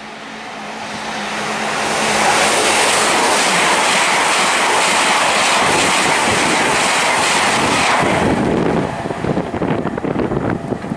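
A Great Western Railway intercity train passing through the station at speed: its rushing wheel and air noise swells over the first two seconds, holds loud and steady for about six seconds, then turns uneven and gusty as the last coaches go by.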